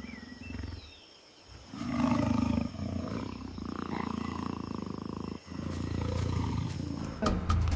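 Tiger roar sound effect: two long, low roars, the first starting about two seconds in and the second following a brief break about five and a half seconds in.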